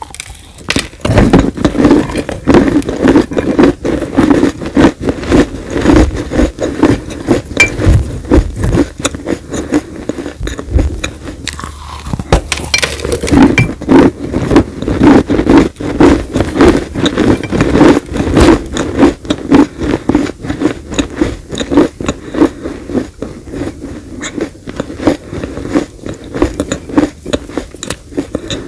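Chewing of crunchy dry clay cookies: a dense, unbroken run of gritty crunches and crackles, several a second.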